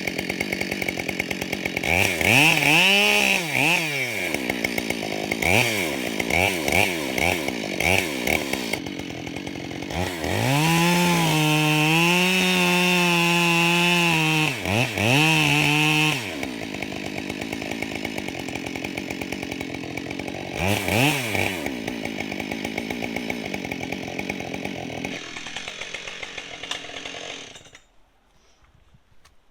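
Husqvarna 572XP two-stroke chainsaw revved up and down several times and held at high revs for about six seconds near the middle. It then idles and is switched off near the end.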